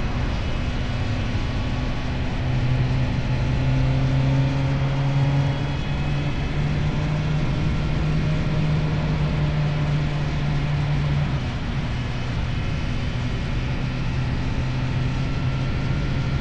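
Motorcycle engine running through an Akrapovic exhaust under way, its note steady and rising about two seconds in, then dropping back near eleven seconds in.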